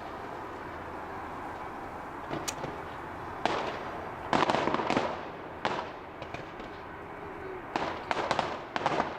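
Fireworks going off at a display: a first bang about three and a half seconds in, then clusters of rapid crackling bangs over steady background noise.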